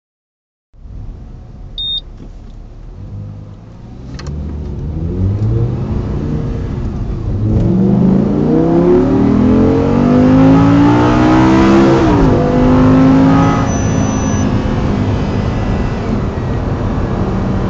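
Audi R8's 5.2-litre V10, heard from inside the cabin, accelerating hard with its pitch climbing steadily. About twelve seconds in the pitch drops suddenly at an upshift, and the engine then pulls on at a steadier, higher level. A short high beep sounds about two seconds in.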